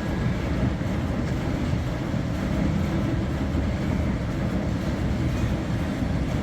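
Electrolux WH620CV commercial washer-extractor agitating its drum during the rinse: a steady low rumble.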